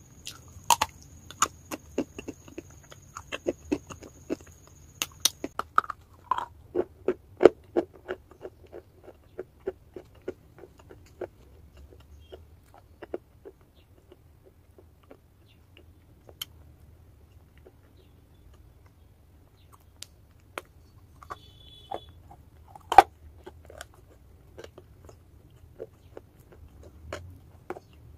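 A person biting and chewing chalk close to the microphone: a run of sharp crunches and clicks, densest in the first ten seconds or so, then sparser bites, with one loud crunch about 23 seconds in.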